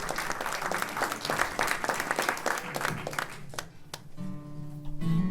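Audience applause fading out over the first three seconds, then a few sustained notes from a plucked string instrument ringing out near the end.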